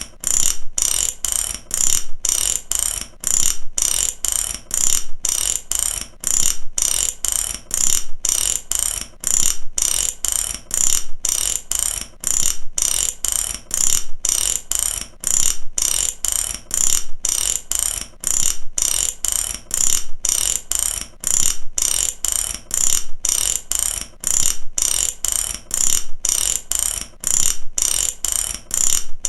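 Mechanic's ratchet wrench clicking, worked back and forth in steady, evenly repeating strokes of rapid metallic clicks.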